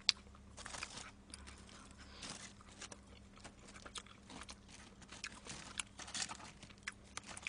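Close-miked chewing of crispy fried food: irregular crunches and wet mouth clicks.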